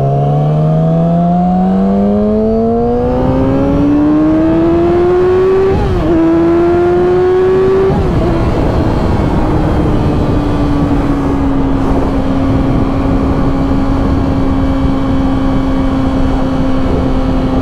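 Yamaha R6's inline-four engine pulling hard with its pitch rising, shifting up about six seconds in and again about eight seconds in, then settling to a steady pitch at highway cruising speed, with wind rushing over the rider.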